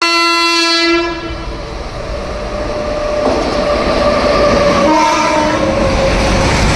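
Locomotive horn sounding one blast of about a second, then the steady rumble and rattle of the train running on the track.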